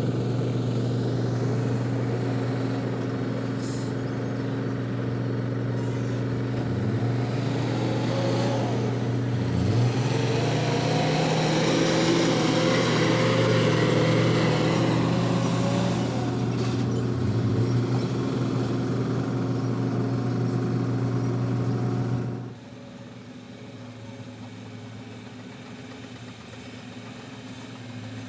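Vehicle engine running steadily, with a few brief rises in engine pitch. About 22 seconds in the level drops suddenly to a quieter engine hum.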